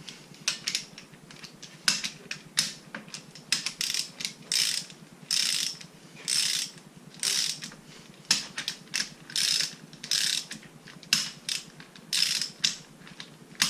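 Hand ratchet wrench clicking in repeated short strokes, about one a second, running bolts down on a rotary engine's housing.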